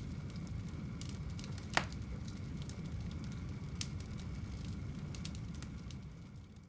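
Wood fire burning in a fireplace: a steady low rumble of flames with scattered crackles and one sharp pop about two seconds in. The sound fades down near the end.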